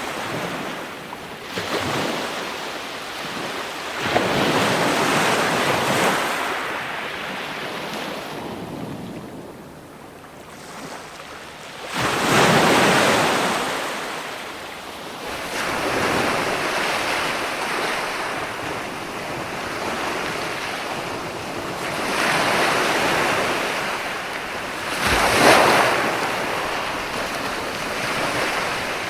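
Ocean waves breaking and washing up on shore, surging and receding every few seconds, with a quieter lull before a big wave breaks about twelve seconds in and another strong surge near the end.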